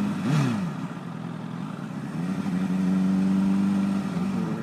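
Honda CBR1000RR inline-four engine at low speed. The revs drop sharply, stay low for a second or so, then rise and hold steady before easing off near the end.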